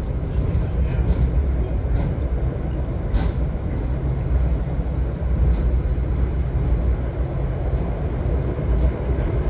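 WeGo Star commuter train running along the line: a steady low rumble with a few faint clicks.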